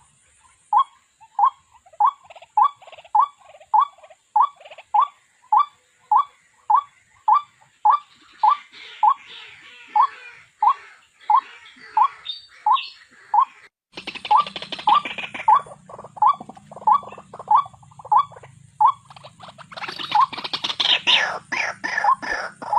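White-breasted waterhen call played as a trapping lure: a single short note repeated about twice a second. About 14 s in, the audio changes to a different recording with a low hum underneath, and harsher chattering sounds join briefly near the end.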